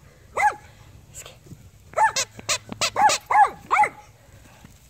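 A dog barking at play: one bark, then after a pause of about a second and a half a quick run of about seven barks.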